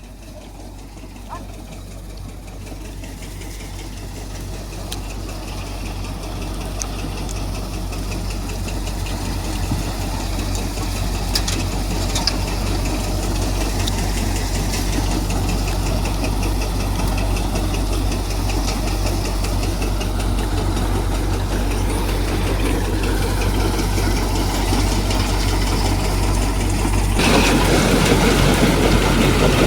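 Tractor-driven threshing machinery running steadily, growing gradually louder, then becoming louder and rougher near the end.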